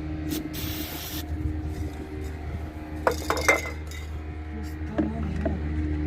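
A WD-40 aerosol can sprayed in one short hiss onto a rusted bolt, followed by a few sharp metal clinks of tools and bolt, over a steady low engine hum.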